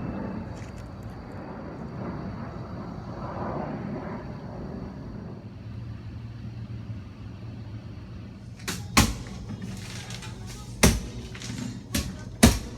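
A steady low rumble, then from about two-thirds of the way through a handful of loud, sharp knocks at uneven intervals, the kind made by repair work on the hatch.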